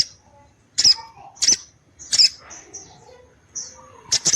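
Sogon (crested jay) giving short, sharp, high calls: three evenly spaced about 0.7 s apart, then after a pause two in quick succession near the end.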